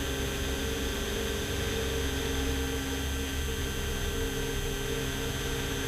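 Beechcraft Bonanza S35's six-cylinder Continental engine and propeller at full takeoff power, heard inside the cockpit as a steady drone with a constant hum.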